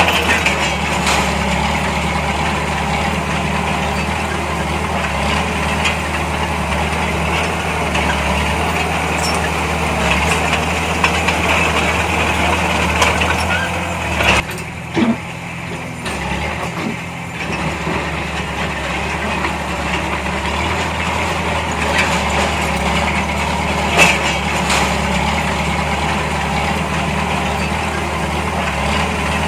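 Heavy diesel engine of earthmoving machinery running steadily, with a brief drop in level about halfway through and a sharp click near the end.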